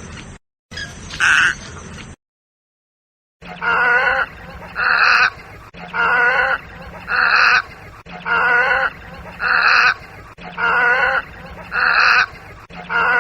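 A bird calling over and over, short calls about once a second, alternating between a wavering call and a rounder, single-pitched one. The calls break off to silence for about a second early on, then resume in a regular series.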